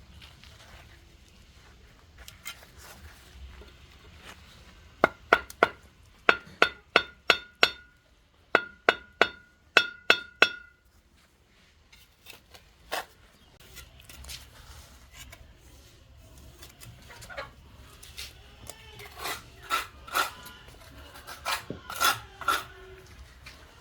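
A series of sharp strikes with a short metallic ring, about two a second, lasting some five seconds and then stopping. Lighter, scattered knocks and clinks follow later on.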